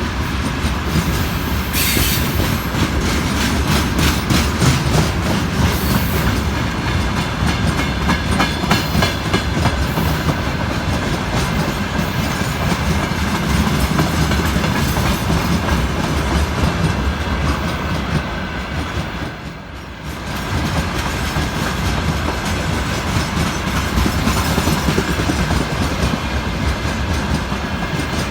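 Freight train rolling past, its wagon wheels clattering over the rail joints in a steady run, with a brief lull about two-thirds of the way through.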